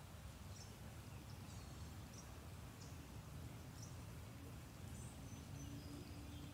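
Faint woodland birdsong: short high chirps every second or so, a few drawn-out thin notes near the end, over a steady low background rumble.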